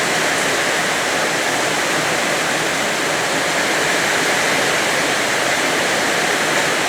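Heavy downpour: a steady, loud rush of rain.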